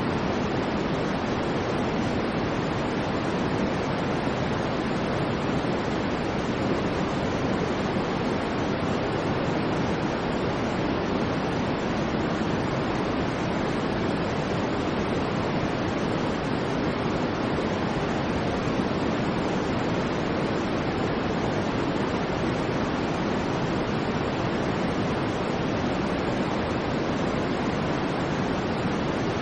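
Steady, unvarying white noise, a sleep-aid noise track, with more weight in the low-mids than in the treble.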